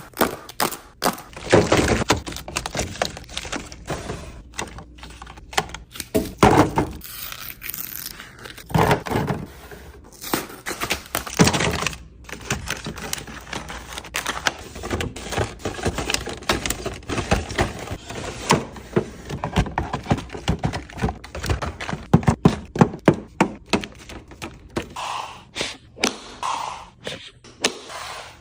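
Food containers and packages being handled and set down while a refrigerator is being organised: irregular thunks, knocks and scrapes, coming as quicker taps near the end.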